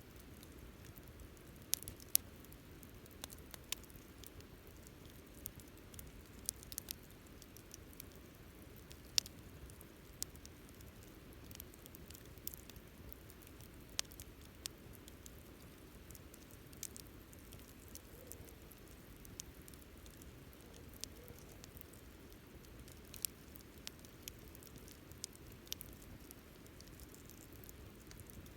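Wood campfire crackling: irregular sharp pops and snaps over a low, steady hiss.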